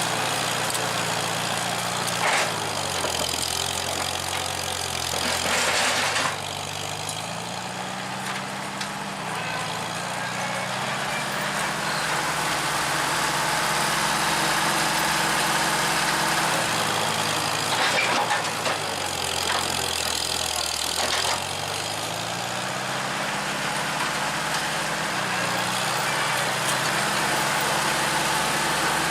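1949 International McCormick W-4 tractor's engine running as the tractor is worked, its speed rising and falling several times, with a few brief louder noisy patches.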